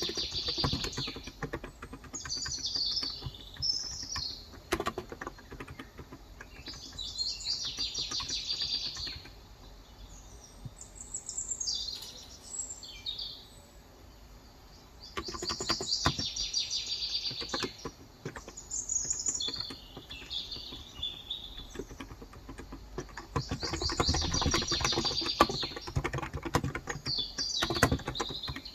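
Birds chirping in repeated bursts of rapid, high twittering a few seconds apart, with scattered keystrokes on a Cox Endeavor 35 g electro-capacitive (Topre-style) keyboard clicking between them.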